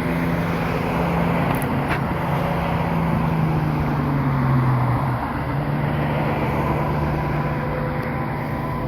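Diesel freight locomotives working at full throttle as the train approaches: a steady low engine drone whose pitch drops about halfway through and then comes back up.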